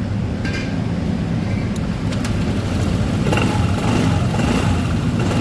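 Honda ADV 150 scooter's single-cylinder engine idling steadily after a successful hot restart, with a few light clicks in the first two seconds.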